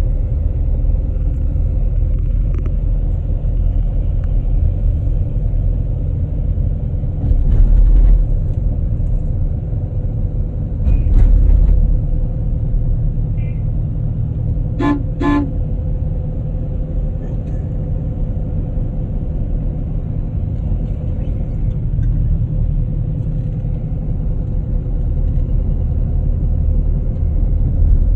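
Steady low vehicle rumble, with two short horn toots close together about halfway through.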